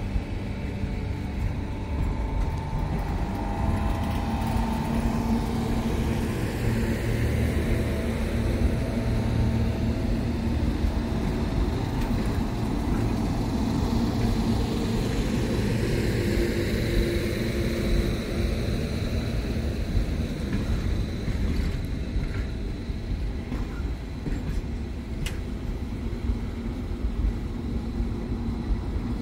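Passenger carriages of The Ghan train rolling past, a steady rumble of wheels on the rails.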